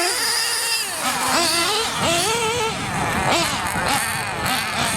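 Small nitro engine of a radio-controlled motorcycle, revving up and down over and over as the throttle is worked, its high buzzing pitch rising and falling every second or so.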